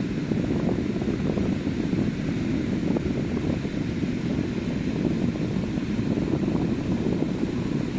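Ocean surf on a beach making a steady rush, mixed with a low rumble of wind buffeting the microphone.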